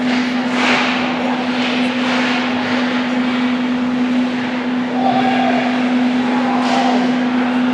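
Ice hockey rink sound: a steady low hum throughout, with skates scraping and cutting on the ice in short strokes now and then.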